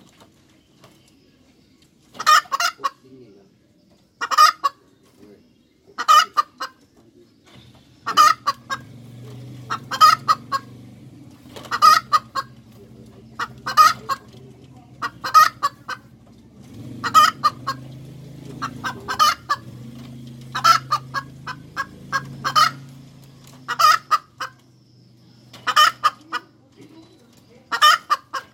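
Domestic hen cackling: a short run of clucking notes repeated about every two seconds. A low steady hum sits underneath through the middle stretch.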